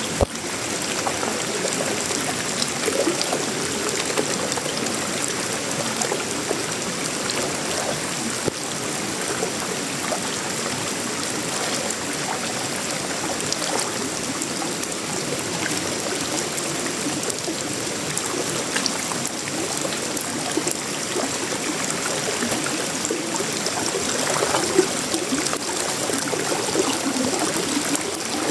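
Steady, dense tropical rain: an even rush of falling water with scattered sharper drop taps.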